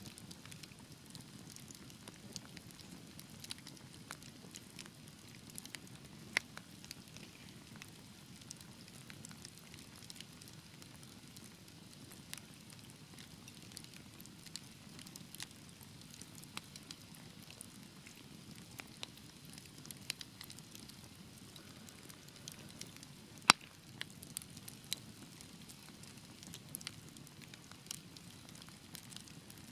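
Fire burning in a fireplace: a steady low rumble of flame with scattered small crackles throughout, a sharper pop about six seconds in and one loud pop about two-thirds of the way through.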